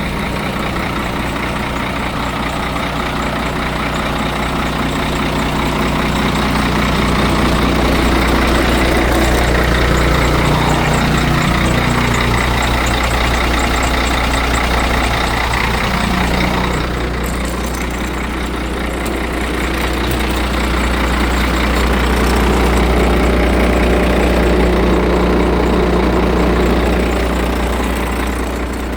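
Scania P114's DC11 11-litre six-cylinder diesel engine running, swelling louder twice, once through the middle and again near the end.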